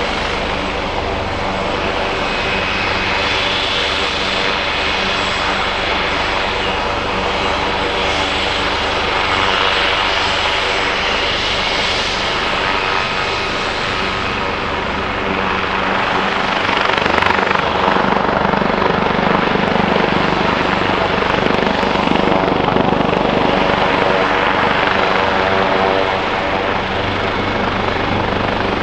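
Helicopter running close by, its engine and rotor making a steady, many-toned drone that grows louder a little past halfway, then eases near the end.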